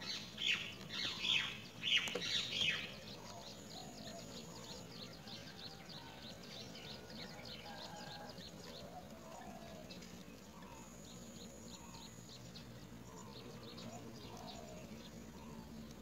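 Great myna nestlings begging for food: several loud, shrill cheeps in the first three seconds, then a long run of faint, rapid chirping.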